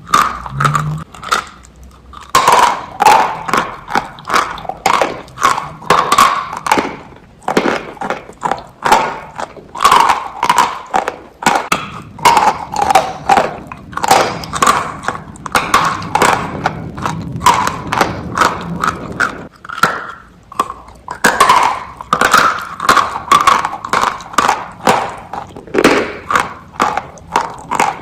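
Close-miked crunching and chewing of biscuits with cream: a steady run of irregular crisp crunches, several a second, with short pauses between bites.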